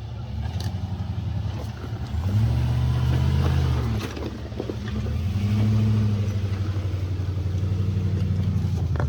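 Four-wheel-drive's engine running under load on an off-road track, revving up and easing off twice, with a steady engine note between.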